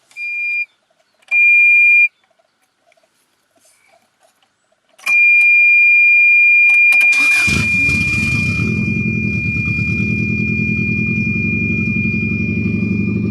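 Two short high electronic beeps, then a long steady beep, as the 1994 Subaru Impreza WRX is started: the starter cranks briefly about seven seconds in and the 2-litre turbocharged boxer engine catches and settles into a loud, evenly pulsing idle through its straight-pipe exhaust, with the beep still sounding over it.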